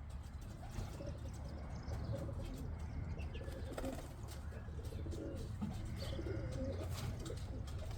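Domestic pigeons cooing, a low warbling that repeats throughout, with a few faint sharp clicks.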